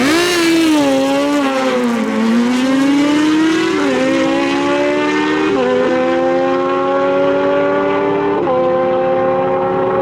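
Stock sportbike drag-racing engine launching off the line, revving up sharply at the start, then upshifting about four, five and a half and eight and a half seconds in: each shift is a sudden drop in pitch followed by a steady climb.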